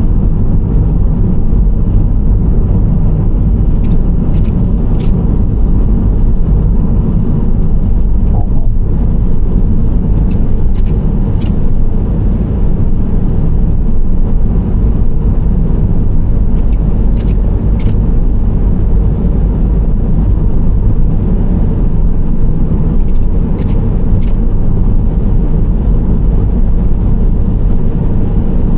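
Nissan Serena C25 minivan driving at steady speed, its engine and tyre road noise making a constant loud rumble. A few short, faint ticks come through now and then.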